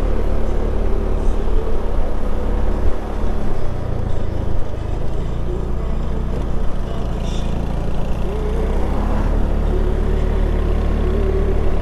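Motorcycle engine running under way, with steady wind and road rumble. The engine note changes about three and a half seconds in.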